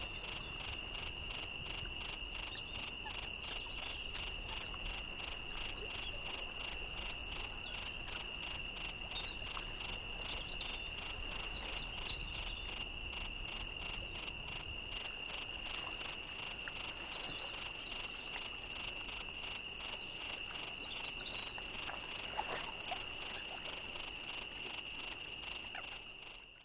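Insects chirping: a steady high trill under an even, pulsing chirp that repeats about three times a second.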